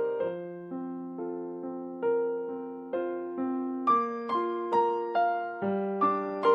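Background music: a soft electric piano playing slow chords and notes, struck about twice a second, each note fading before the next.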